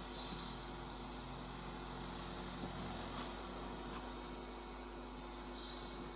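Faint steady hum and hiss of a Vande Bharat Express electric trainset rolling slowly past, with no clear rise in loudness.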